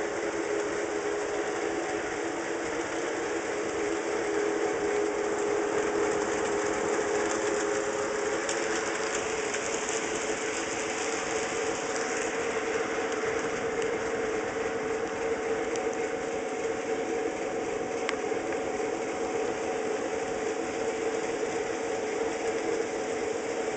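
HO scale model train running on the layout under DC power: a steady electric motor hum with the rush of wheels on track.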